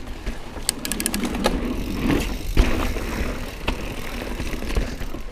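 Mountain bike being ridden over a rough trail: steady rumble of tyres and drivetrain with rattling, a quick run of sharp clicks about a second in and a hard knock about two and a half seconds in.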